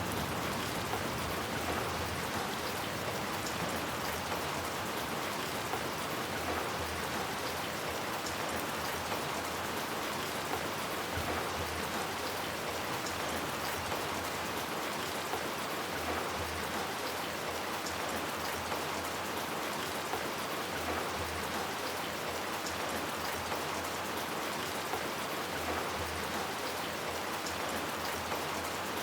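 Steady rain falling: a continuous even hiss with individual drops ticking through it, unchanging in level throughout.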